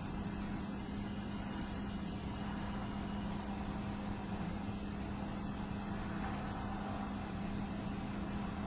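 Steady hiss with a low, even hum, and the high-pitched ringing of the camcorder's hard drive, whose pitch steps up about a second in and drops back about three and a half seconds in.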